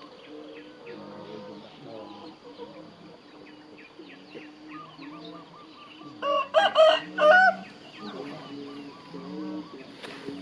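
A rooster crowing once, loud and in several parts, about six seconds in. Softer chicken clucking goes on throughout.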